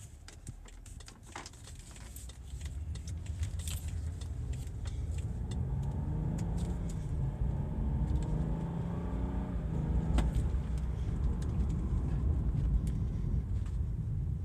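BMW 535i xDrive's turbocharged 3.0-litre inline-six pulling the car under acceleration, with road rumble underneath. The engine note climbs in pitch for a few seconds in the middle and drops away around ten seconds in, at a sharp click. Small rattles and clicks are scattered throughout.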